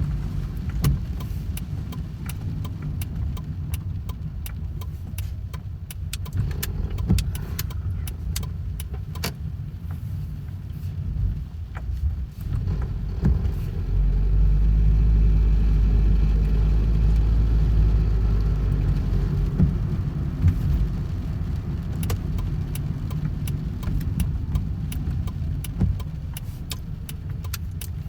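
Rain with scattered sharp drop ticks over a low vehicle rumble. The rumble grows louder about halfway through and stays up for several seconds.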